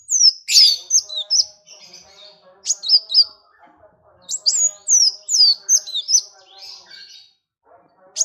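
Songbirds singing: loud, rapid high-pitched chirps, many sweeping sharply down in pitch, in phrases with short pauses, over a lower, softer warbling chatter.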